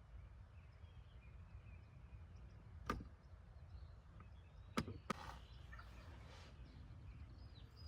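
Wild turkey gobbling faintly at a distance, in short bursts about three and five seconds in, over a low steady wind rumble with faint small-bird chirps.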